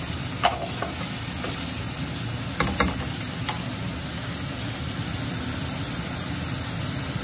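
Chicken strips frying in hot oil in a metal pan, a steady sizzle, with a few knocks and scrapes of a spatula against the pan about half a second and two and a half seconds in.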